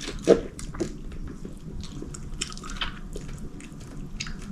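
Close-up eating of sauced chicken wings: a run of short, irregular wet smacks and clicks from chewing and lip-smacking.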